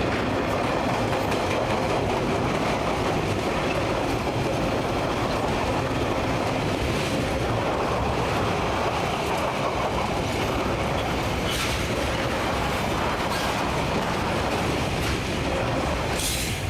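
Freight train rolling past, a steady rumble of wagon wheels with clickety-clack over the rail joints and a few sharp high clicks.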